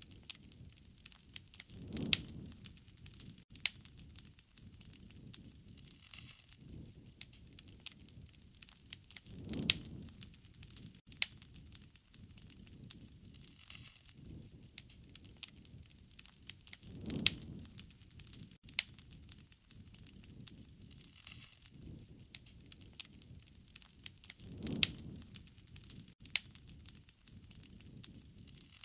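Wood fire crackling, with many sharp pops and snaps over a low rumble that swells about every seven and a half seconds.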